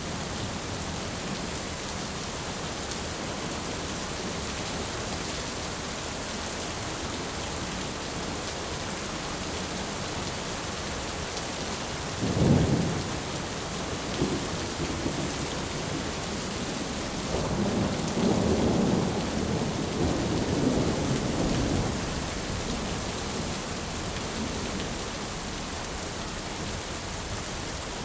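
Steady heavy rain drumming on a tin roof. Thunder cracks sharply about halfway through, and a longer rolling rumble follows a few seconds later.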